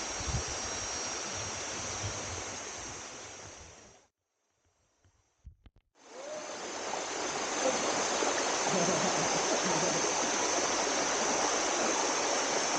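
Steady rushing of a mountain stream and waterfall, with low wind buffeting on the microphone at first and a thin steady high tone over it. The sound fades out about four seconds in, leaving near silence for about two seconds, then fades back in and carries on steadily.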